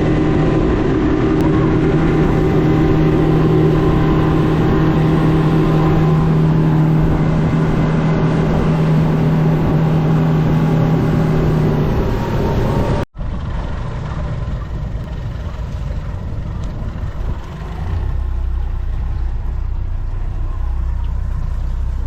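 A motor engine running steadily with a droning hum. Just after thirteen seconds in, the sound drops out for an instant, then comes back as a lower, rougher engine rumble.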